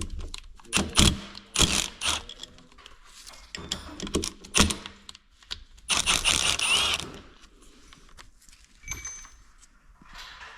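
Metal tools and engine parts being handled on a workbench: irregular clinks, knocks and rattles, with a longer clatter about six seconds in.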